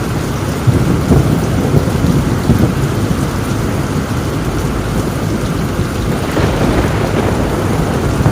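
Heavy rain falling on a tin roof with thunder rumbling, swelling with a few sharp cracks about a second in and rumbling up again near the end.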